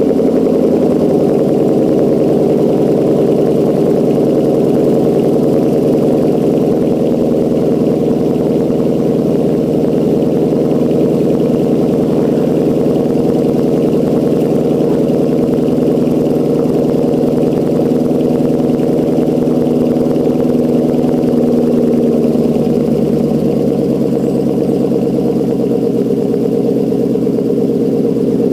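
2014 Mustang GT's 5.0 L V8 idling steadily through a Roush axle-back exhaust right after a cold start, with no revs. The note shifts a little lower about twenty-two seconds in as the cold idle settles.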